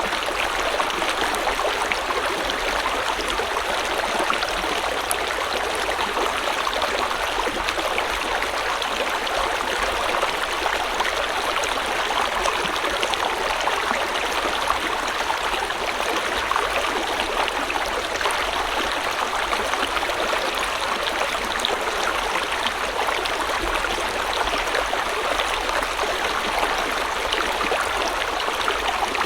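Flowing river water running steadily over rocks, an even, unbroken rush.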